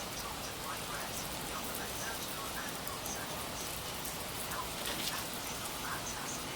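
Rain falling steadily, an even hiss of drops on the ground and surfaces around.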